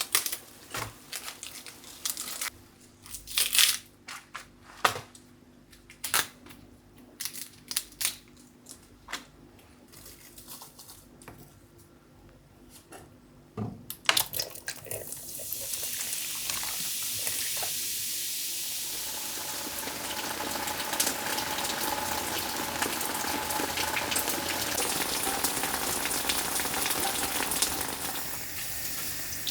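Scattered light crinkles and clicks of handling, then from about halfway a tap running steadily into a sink until it eases off near the end.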